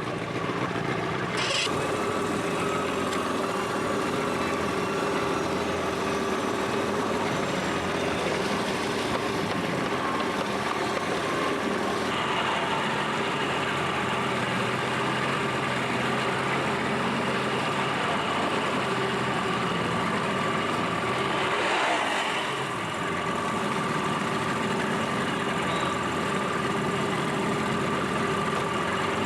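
A vehicle engine running steadily, with a constant hum and a brief swell about three-quarters of the way through.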